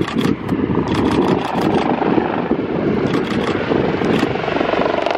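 Helicopter flying, with a steady engine and rotor noise that continues without a break. Scattered short clicks sound over it.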